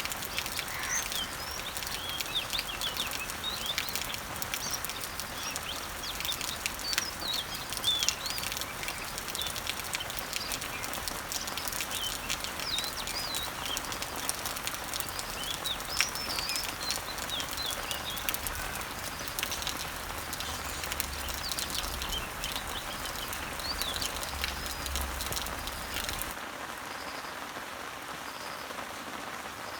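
Rain falling steadily on garden leaves and trees, with many small birds chirping and singing over it. About 26 seconds in, the sound changes abruptly: the birdsong and a low hum drop out, leaving a slightly quieter, even rain hiss.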